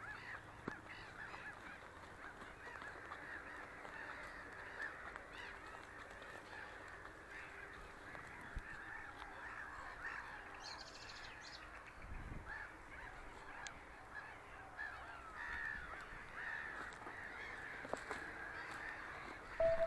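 A flock of birds calling: many short, overlapping calls, faint and continuous.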